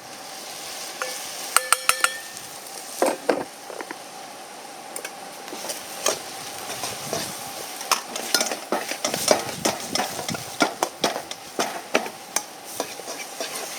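Stir-frying in a Chinese wok: food sizzling steadily while a utensil scrapes and clanks against the pan, with a few sharp ringing knocks near the start and a run of quick strokes through the second half.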